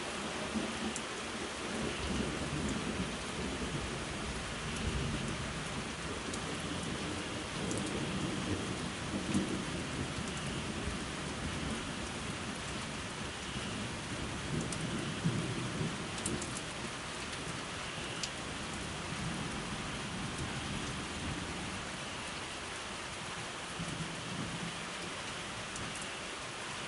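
Steady rain with thunder rumbling low at times, and a few sharp ticks of drops landing close by.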